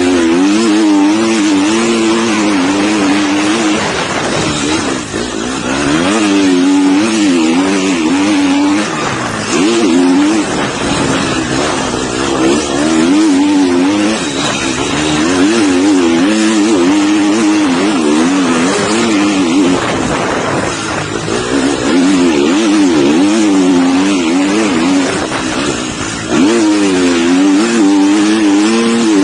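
Motocross dirt bike engine heard from a camera mounted on the bike, revving up and down constantly under hard throttle through sand, with heavy wind and riding noise over it.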